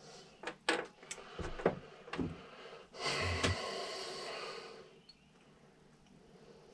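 Small carburetor parts clicking and tapping as they are handled and fitted during reassembly, followed about three seconds in by a hiss lasting about two seconds.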